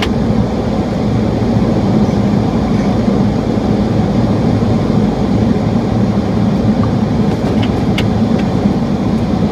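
Steady flight-deck noise of a Boeing 737 in flight: a constant rumble of airflow and engines with a low hum. There is a faint click about eight seconds in.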